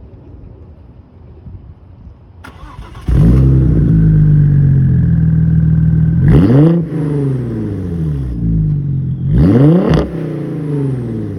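Audi B5 S4's 2.7-litre twin-turbo V6 with an XS-Power 200-cell catted exhaust, starting about three seconds in and settling into a steady idle. The engine is then given two short throttle blips, one a few seconds after starting and another near the end, each rising and falling quickly back to idle.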